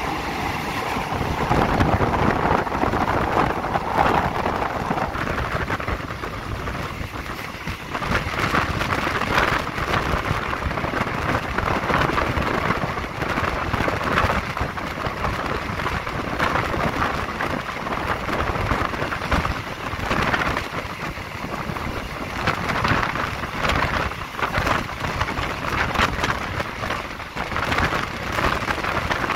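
Passenger train running along the track, heard from inside a carriage through an open window: a steady rush of wheel and rail noise and air, with frequent clicks and knocks.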